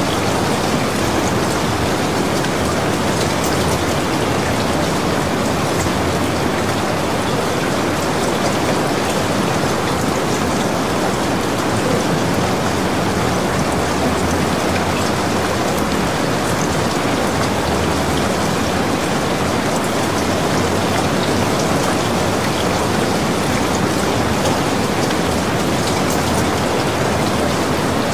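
Steady rain falling and splashing on a wet surface: an even, unbroken hiss with fine pattering of drops, never rising or falling.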